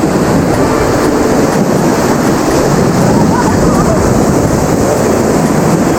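Rushing whitewater of a river rapid: a loud, steady noise of churning water.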